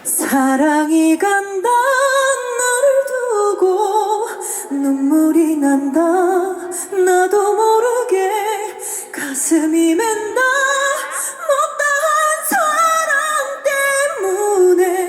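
A woman singing a cappella, with no backing track: a slow melody of long held notes with vibrato.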